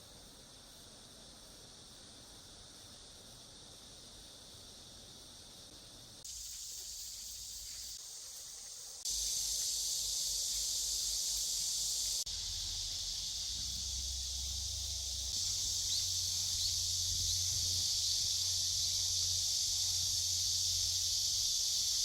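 Steady chorus of late-summer insects such as crickets, a continuous high-pitched shrilling that jumps abruptly louder several times.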